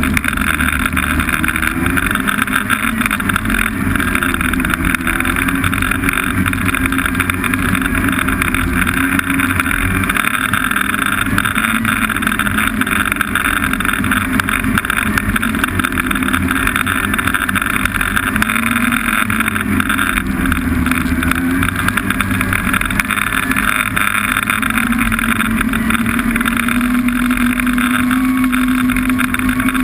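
Snowmobile engine running at a steady cruising speed, its pitch wavering slightly up and down with the throttle.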